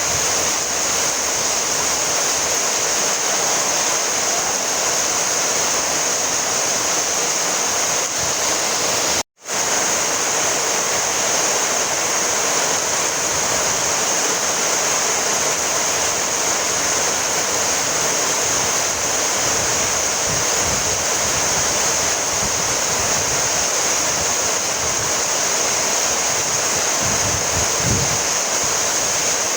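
Steady rainfall, an even hiss of rain that cuts out for a split second about nine seconds in.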